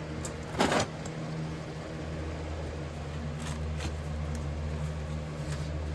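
Steady low mechanical hum of running equipment, with one brief clatter about a second in.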